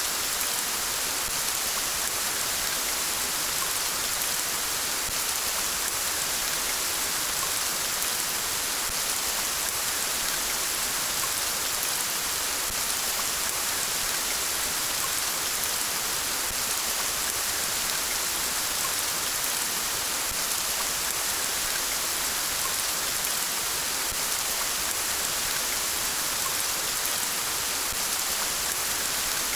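Steady rain falling, an even hiss with fine pattering drops that holds at one level throughout.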